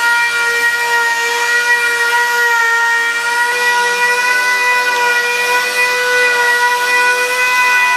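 A 6-inch dual-action sander with a 3/32-inch orbit runs steadily, a high whine over a hiss. It is dry-sanding a clear-coated tabletop with 2000-grit paper on an interface pad to expose surface defects.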